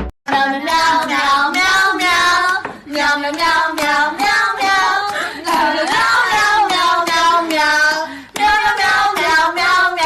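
A high-pitched voice singing a tune in short, rhythmic phrases, with a brief pause about eight seconds in.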